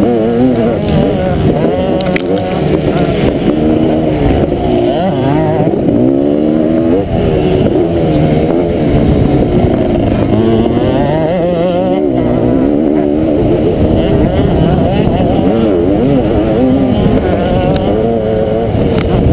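Kawasaki KX500 single-cylinder two-stroke motocross engine being ridden hard, its pitch climbing and dropping over and over as the throttle is opened and closed.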